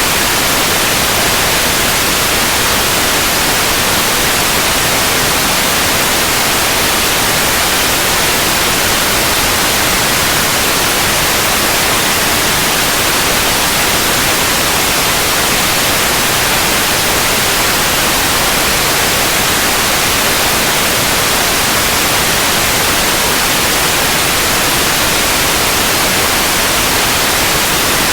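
Steady, unbroken white noise: an even hiss spread across all pitches, strongest in the upper range.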